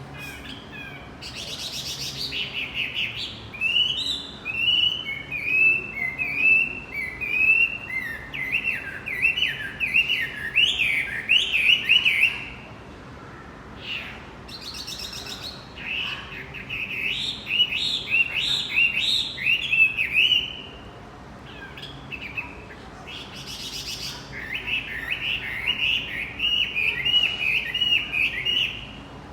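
Male wambi singing its rapid, high chattering song in three long bouts, with short pauses between them.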